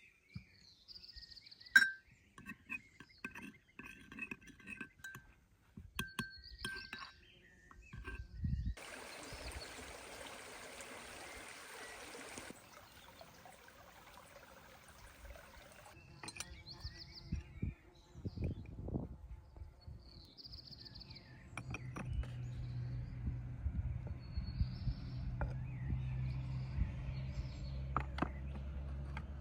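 Outdoor cooking handling sounds: scattered clinks of utensils or glassware, the loudest about two seconds in, and about four seconds of a steady rushing, pouring sound starting about nine seconds in. Birds chirp now and then. From about two-thirds of the way through, a low steady hum sets in underneath.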